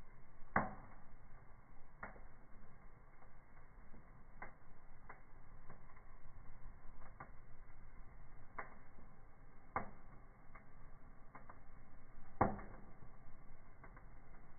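Fire burning in a fireplace, its burning material giving irregular crackles and pops over a faint steady background. The loudest pops come about half a second in, near ten seconds and near twelve and a half seconds.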